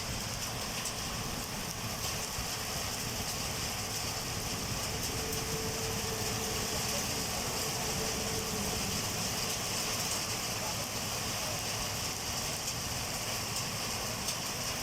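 Heavy rain pouring down steadily, a dense even hiss with no let-up, and a faint steady tone for a few seconds in the middle.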